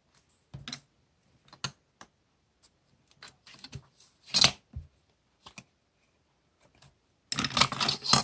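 Paper and stationery being handled for diary decorating: scattered light taps and clicks, then about a second of rustling paper near the end.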